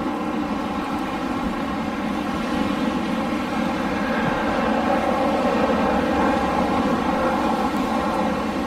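Wind blowing in a steady rush that swells a little midway and eases near the end.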